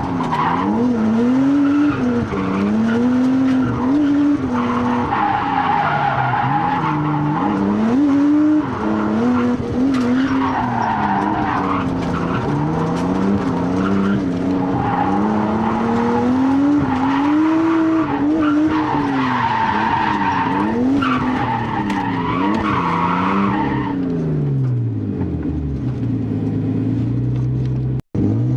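Turbocharged RB20DET straight-six of an R32 Skyline revving up and down hard while drifting, with the tyres squealing in repeated bursts. Near the end the engine falls to a low idle, and the sound cuts out for an instant just before the end.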